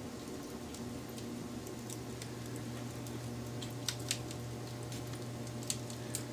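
Wood fire crackling, with small ticks throughout and a few sharper pops in the second half, over a steady low hum.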